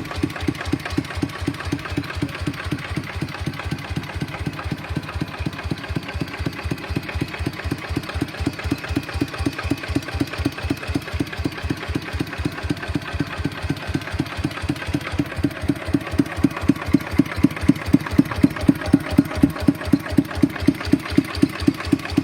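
Kubota ET95 single-cylinder diesel engine of a walking tractor idling with an even, regular beat of about four to five firings a second. It grows a little louder about two-thirds of the way in. The seller calls the engine tight and smooth.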